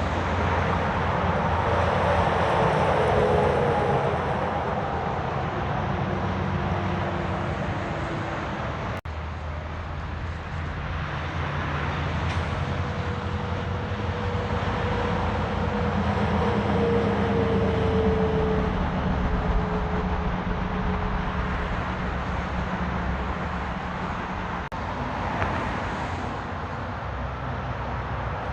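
Heavy road traffic with lorries passing: a steady engine drone and tyre noise, with tones that slide a little in pitch as vehicles go by.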